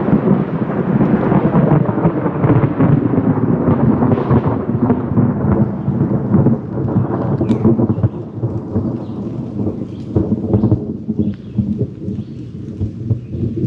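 Very close thunder, a long low rumble rolling on for many seconds. It is loudest through the first half and eases off about eight seconds in, still grumbling.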